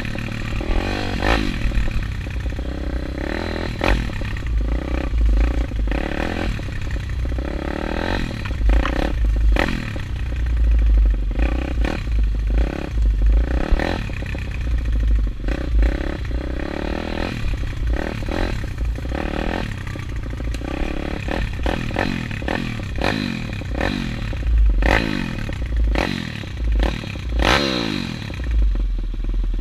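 190cc Daytona pit bike's single-cylinder four-stroke engine revving up and down over and over as it is ridden, with many sharp clattering knocks and scrapes mixed in.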